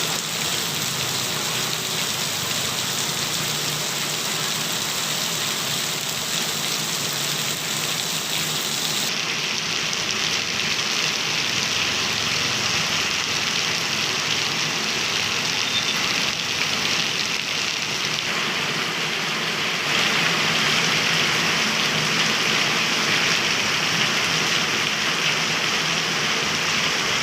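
Heavy rain falling steadily, a dense even hiss. The sound changes abruptly about nine seconds in and gets louder about twenty seconds in.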